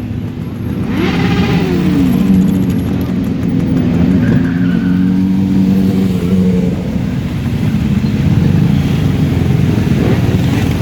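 Motorcycle engines running and revving. About a second in, one engine note rises and then falls, and steadier engine notes follow.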